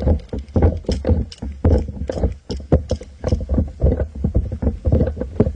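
Irregular knocking and thumping, a few knocks a second over a low rumble: handling noise of a camera mounted on an airsoft M4 rifle as it is jostled.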